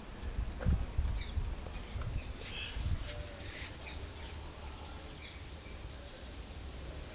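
Birds chirping and calling in short, scattered notes, over a low rumble of wind on the microphone with a few soft bumps in the first three seconds.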